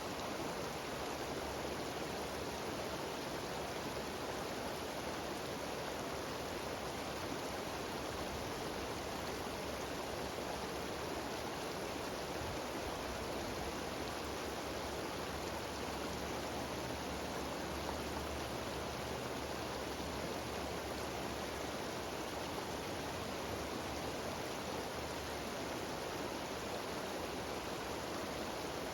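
Mountain waterfall cascading down rocks: a steady, unbroken rush of falling water.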